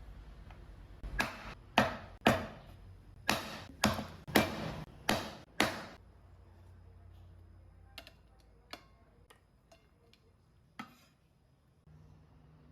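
A run of about nine sharp knocks, roughly two a second, followed by a few fainter clicks and taps.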